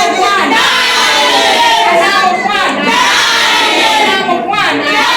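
A crowd of voices, loud and overlapping, many people calling out and talking at once.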